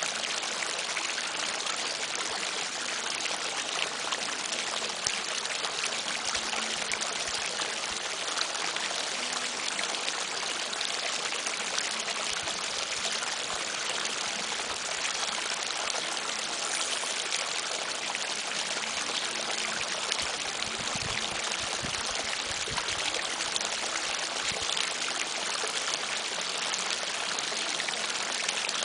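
Steady rush of running water, an even unbroken flow with no distinct splashes.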